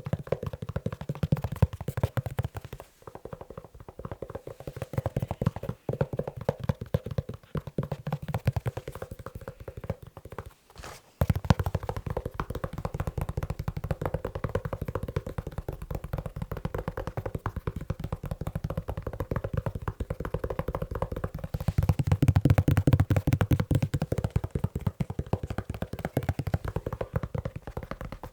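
Fast fingertip tapping on a leather shoe: a dense, rapid patter of soft taps that pauses briefly a few times and grows louder for a few seconds near the end.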